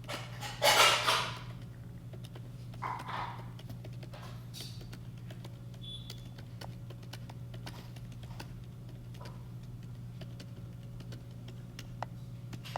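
Scattered faint clicks and taps over a steady low hum, with a brief loud rustling noise about half a second in and a softer one about three seconds in.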